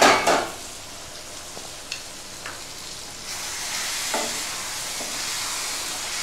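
Chicken curry sizzling in a pan while a spatula stirs it, with a brief loud clatter at the start as the steel plate lid comes off. The sizzle gets louder about three seconds in, once the stirring starts.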